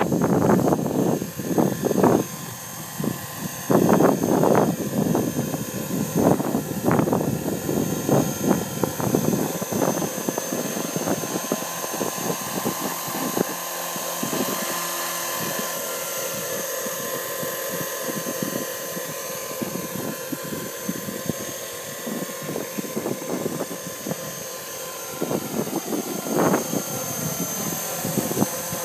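Radio-controlled MD500 scale model helicopter running, with a steady high whine from its motor and rotors that drifts slightly in pitch. Gusty buffeting on the microphone in the first few seconds and again near the end.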